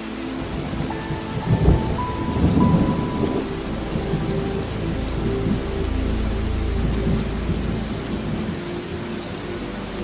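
Steady rain with thunder: a sharp crack a little under two seconds in, then a long low rumble rolling on through the rest.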